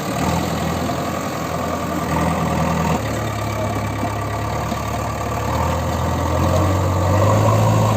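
Heavy diesel engine of a farm tractor or backhoe loader running under load at a low, steady speed. Its note shifts about three seconds in, then climbs and gets louder over the last couple of seconds as the engine speeds up.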